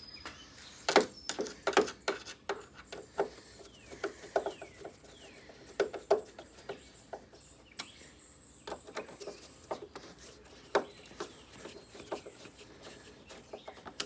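Irregular clicks and knocks of air conditioner parts and screws being handled and fitted as the unit's case is put back together, with a few faint bird chirps in the background.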